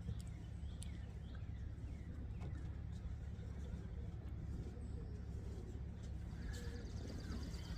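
Pigeons cooing faintly in a loft over a steady low rumble, with a few light clicks.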